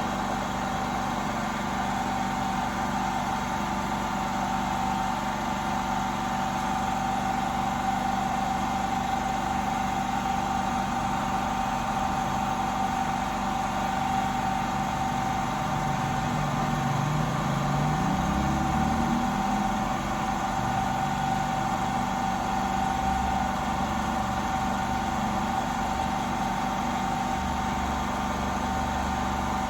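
Steady mechanical hum of a running motor or machine with a constant high tone, and a short rising glide in pitch about halfway through.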